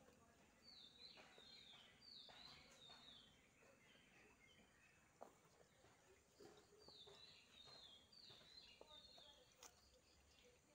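Faint bird song: two runs of short, quickly repeated falling whistled notes, one about a second in and one in the second half.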